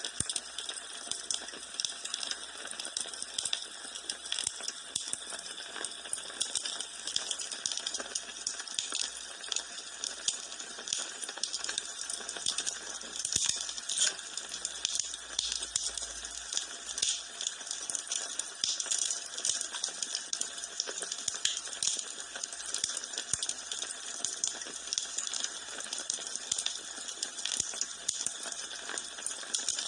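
Wood fire burning in a fireplace, crackling: dense small pops and snaps over a soft hiss.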